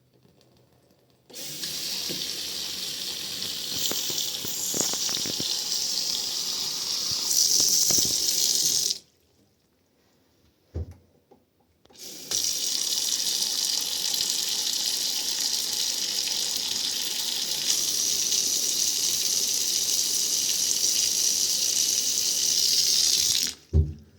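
Water running in two spells, about seven and eleven seconds long, each starting and stopping abruptly, with a single knock in the quiet gap between them.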